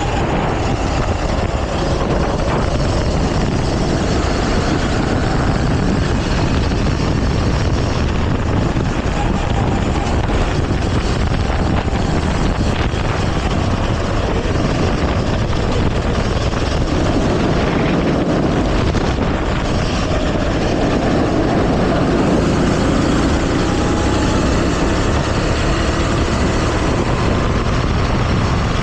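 Go-kart engine running at race speed, its pitch rising and falling with the throttle, under heavy wind noise.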